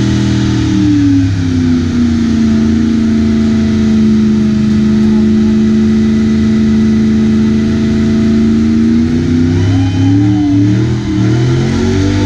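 Car engine held at steady revs: its pitch drops about a second in, holds level for several seconds, then climbs again near the end.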